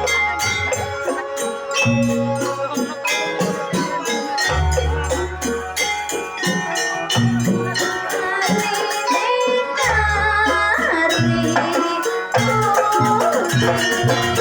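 Live jaranan music: fast, dense drum and rattling percussion under pitched melody lines, with a deep low tone lasting about a second that comes back roughly every five seconds.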